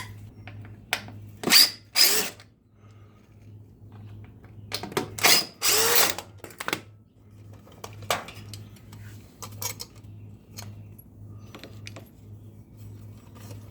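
Power drill run in several short bursts, with one longer run in the middle, backing screws out to take the old garage door photo eyes off the wall.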